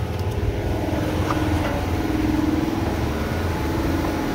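A car engine idling steadily: a low hum with a droning tone that swells a little in the middle.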